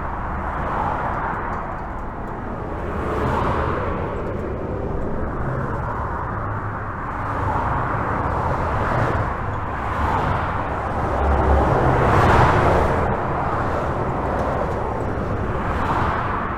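Steady highway traffic heard from under a bridge: a continuous hiss of tyres over a low rumble, swelling every couple of seconds as individual cars and trucks pass, with the loudest pass about twelve seconds in.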